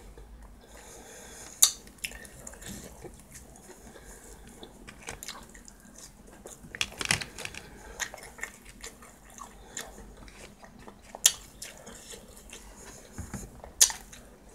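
Close-up chewing and biting of someone eating food, with a few sharp clicks of cutlery against a plastic food tray.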